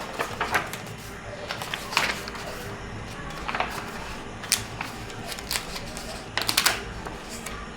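Pages of a book being turned by hand: a series of short paper rustles and flicks, about one every second, with a quick cluster of them near the end.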